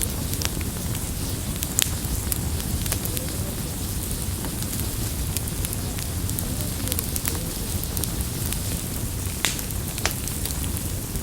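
Campfire burning: a steady low rush of flames with sharp crackles and pops scattered through, a few louder ones near the start and near the end.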